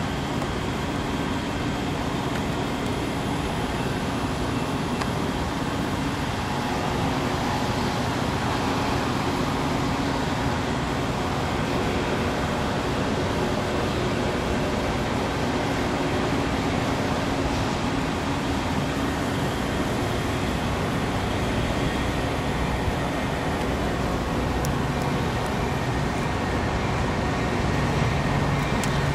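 Steady rumble of rail and road traffic. Near the end a Metra F40PHM-2 diesel locomotive pulls in close with its engine running as it leads a commuter train.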